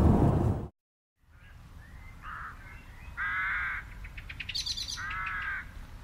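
A loud noisy rumble cuts off abruptly within the first second. Birds then call over a low steady rumble: three drawn-out calls about a second apart, the last two the loudest, with a brief high chattering call between them.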